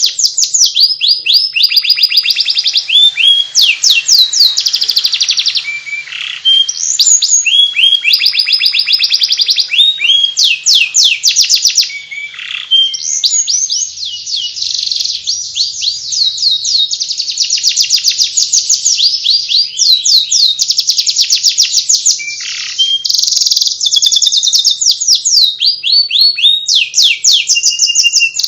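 Domestic canary singing in 'ngeriwik' style: a continuous run of fast, high chirps and trills, each phrase a quick series of repeated notes, with only brief breaks.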